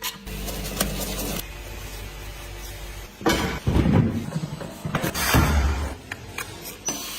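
Tyre-shop work noises: a machine runs briefly, then comes a loud spell of knocks and clatter, and another a second later.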